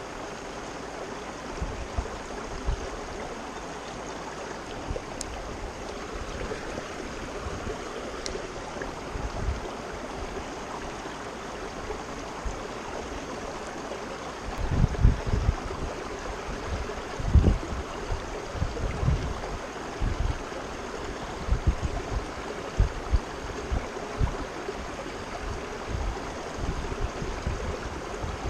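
Creek water running steadily. From about halfway through, irregular low buffeting hits the microphone.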